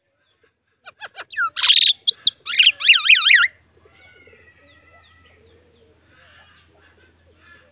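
Myna (shalik) giving a loud run of calls: a few sharp clicks, a harsh rasp, then rapid warbling whistles that rise and fall, stopping about three and a half seconds in. Fainter bird chatter and a low steady hum follow.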